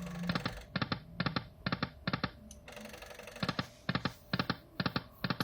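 Video slot machine clicking in two runs of about five short, evenly spaced clicks, with a pause between them, like reels stopping one after another on successive spins.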